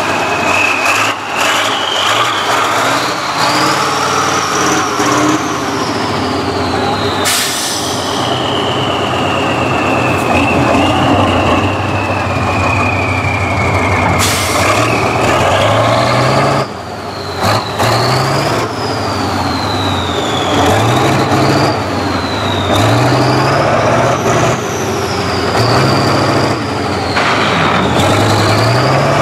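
Tractor engine working hard, its revs climbing, then sagging slowly, then rising and falling again and again about every two seconds, with a high whine tracking the revs. Two brief sharp bursts of noise cut in, about a third of the way in and halfway through.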